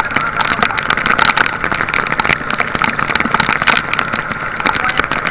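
Heavy rain and wind beating on the microphone, with many small hits, over the steady drone of a small boat's engine.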